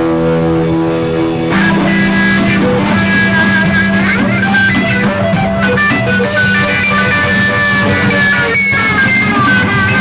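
A live band jamming. An electric guitar plays a lead line of bent, sliding notes over a bass note that is held and steps up about a second and a half in.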